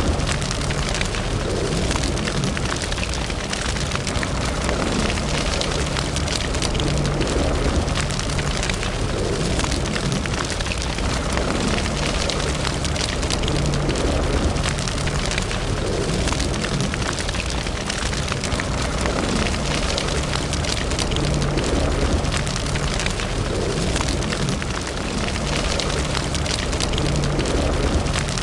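Wood fire in a fireplace crackling steadily, a dense run of small pops and snaps over a low rumble.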